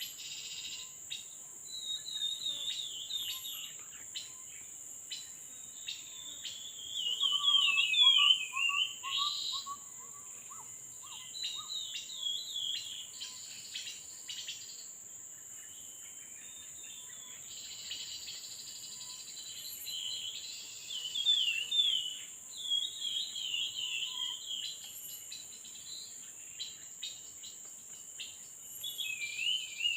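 Small songbirds singing in short bursts of quick, warbling chattering phrases, repeated every few seconds and loudest about eight seconds in, over a steady high insect buzz.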